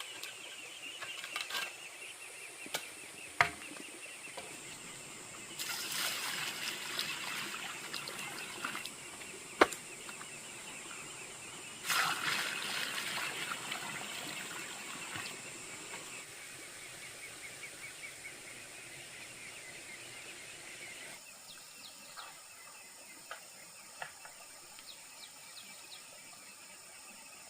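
Outdoor rural ambience with a steady high chirring, two sharp knocks, and two spells of louder rushing noise about six and twelve seconds in.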